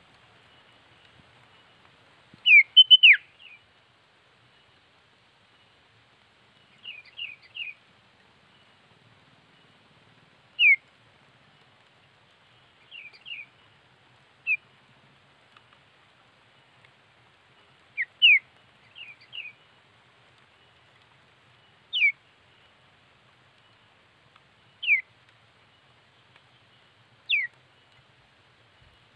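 Female sooty-headed bulbul (kutilang) calling: short whistled notes that slide downward, spaced a few seconds apart, some in quick groups of three, with a louder run of several notes about three seconds in. It is a female's call that lures a rival bird.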